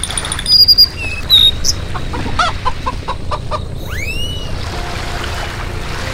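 Birds calling: a few short high chirps, then a quick run of clucking notes about two seconds in and a swooping whistle about four seconds in, over a steady low rumble.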